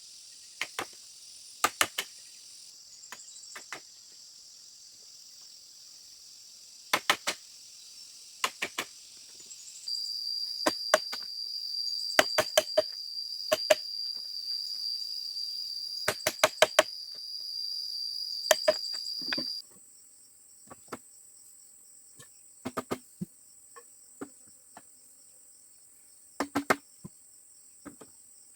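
Sharp knocks in quick pairs and clusters, typical of work on bamboo by hand, over a steady high drone of insects. A loud, shrill, unbroken insect note joins about a third of the way in and cuts off suddenly about two thirds through.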